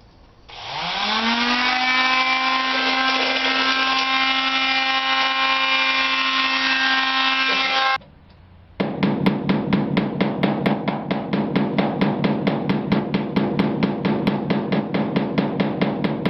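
A palm sander starts up, its motor whine rising quickly to a steady high pitch, then runs evenly for several seconds before switching off. After a short pause comes a fast, even beat of sharp hits, about five or six a second.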